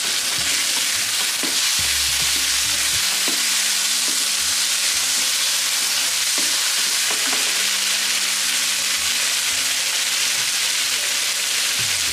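Chicken tikka masala with sliced onions and green chillies sautéing in a hot nonstick pan: a steady sizzling hiss, with a wooden spatula stirring and scraping through it in scattered light knocks.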